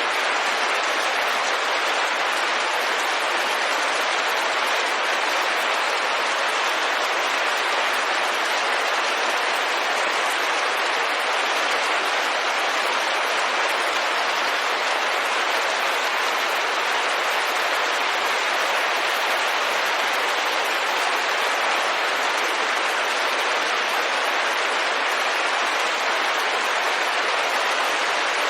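Rain falling steadily on a window: a dense, even hiss of drops with no distinct separate hits.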